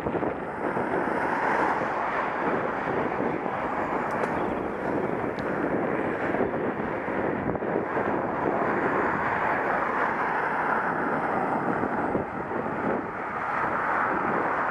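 Wind rushing over a Contour action camera's microphone while cycling: a steady, loud rushing noise with no distinct events.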